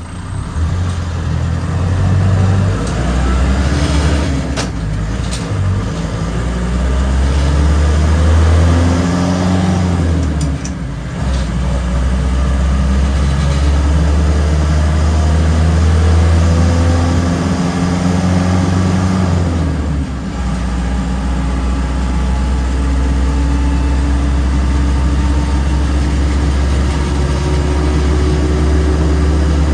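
1967 Land Rover Series II short-wheelbase soft top's engine and drivetrain heard from inside the open cabin, pulling away and working up through the gears. The engine note rises in each gear and dips at each of three shifts, then settles into a steady cruise for the last third.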